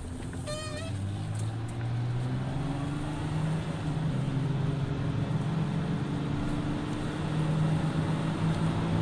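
Jeep Cherokee engine and road noise heard from inside the cabin as the vehicle speeds up, the engine note rising in pitch and getting louder, then holding fairly steady. A brief high chirp about half a second in.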